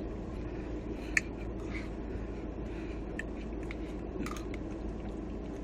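Someone eating chicken nachos: a few short crunches and clicks, the sharpest about a second in, over a steady low hum.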